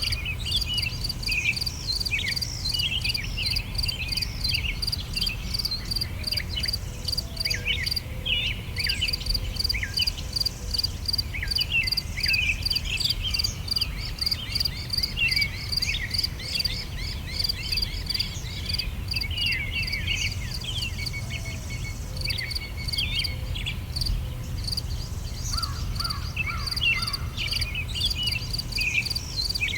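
Summer outdoor ambience: many small birds chirping and twittering in short irregular calls, over a steady, rapidly pulsing chirp of insects, with a low rumble beneath.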